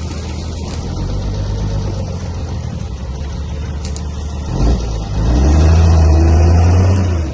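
Heavy diesel engine of earthmoving machinery running steadily, then working harder and louder for about two seconds near the end before easing off.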